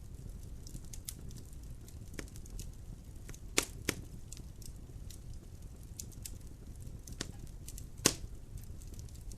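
Wood logs burning in a fireplace: a low steady rumble of the fire with scattered sharp crackles and pops, two louder pops about a third of the way in and near the end.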